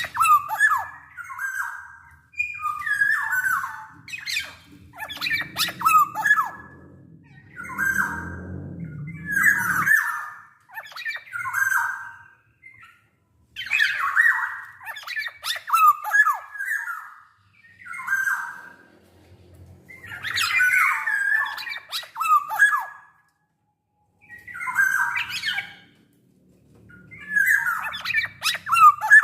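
Black-naped oriole calling in short repeated bursts with gaps between, roughly one burst every one to two seconds, its notes gliding mostly around the middle of the range.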